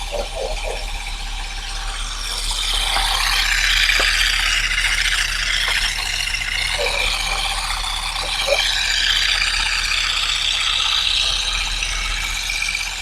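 Olive branches and leaves rattling and rustling as olives are stripped off the tree by hand, with a few sharp clicks, louder through the middle stretch.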